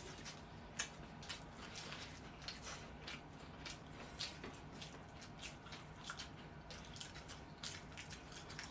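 Several people chewing raw napa cabbage-leaf wraps of rice and potato sauce: quiet wet crunches and mouth clicks, irregular, a few a second.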